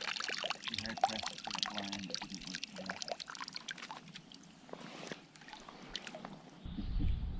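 Water splashing and trickling in many small, irregular splashes, with a low rumble coming in near the end.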